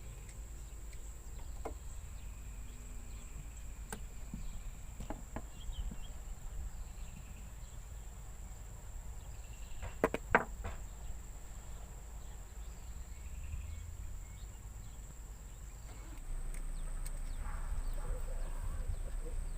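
Steady high-pitched insect drone in the background, with a low rumble and a couple of sharp clicks about halfway through.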